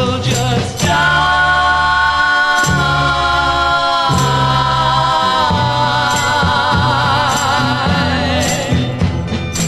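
Folk vocal group singing a long held harmony note with vibrato over instrumental accompaniment, the voices moving to a new chord about four seconds in. Sharp percussion strikes sound throughout and grow busier near the end.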